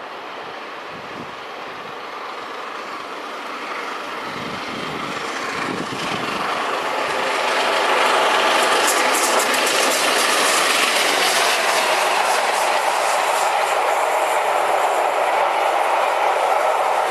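Steam-hauled passenger train headed by 60163 Tornado approaching and rolling past. It grows louder over the first eight seconds or so, then becomes a steady rush of wheels on rail with rapid clicking over the rail joints.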